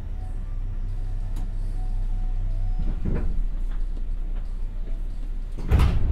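JR West 201 series thyristor-chopper electric train coming to a stop, heard from inside the passenger car. A steady low hum and rumble fades about three seconds in, with a few knocks as the car halts. Near the end, a sudden loud burst of air and sliding sounds as the doors open.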